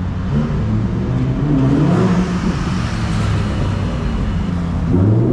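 Porsche Cayman sports car engine running as the car drives past at low speed in street traffic, its pitch rising and falling, with a louder rise near the end.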